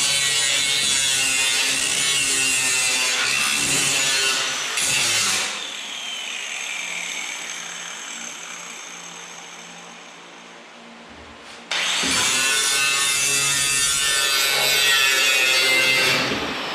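Hand-held power grinder grinding on the steel body of a 1955 Chevy, in two runs. The first stops about five seconds in and the disc spins down with a falling whine; grinding starts again abruptly about twelve seconds in and stops near the end, again winding down.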